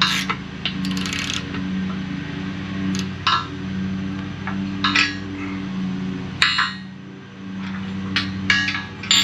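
Hand tools and steel sled parts knocking and clinking during assembly: scattered single knocks, a louder knock about six and a half seconds in, and a quick run of clinks near the end, over a steady low hum.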